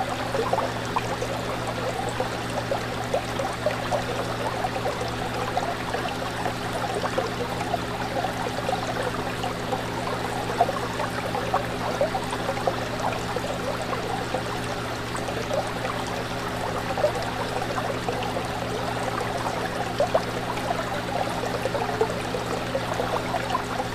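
Fish tank water bubbling and trickling, with many small pops, over a steady low hum.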